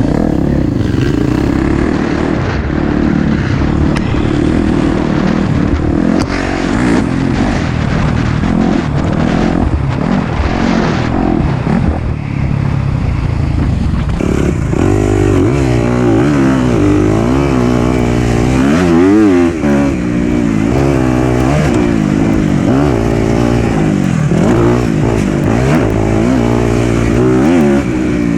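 Four-stroke single-cylinder dirt bike engine under way on a trail, revving up and down as the throttle is worked, its pitch rising and falling repeatedly through the second half.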